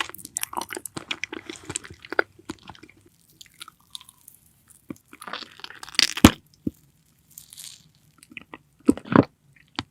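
Close-miked eating: a run of crisp crunching chews, a pause, then a loud crunching bite about two-thirds of the way through and another short crunch near the end.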